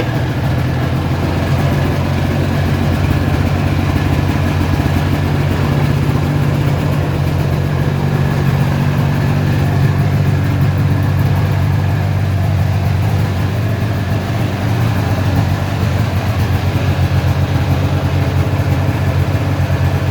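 1998 Ski-Doo Formula Z snowmobile's 670cc Rotax two-stroke twin engine idling steadily, running again after being fitted with a CDI, coil and carburettors.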